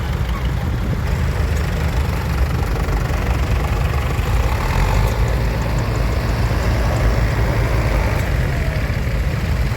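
Diesel tractor engines idling steadily, a continuous low rumble.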